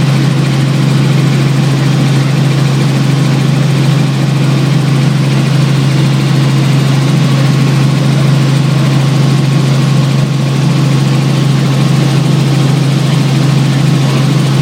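Helicopter running in flight: a loud, steady low drone with a constant pitch and a wash of noise above it.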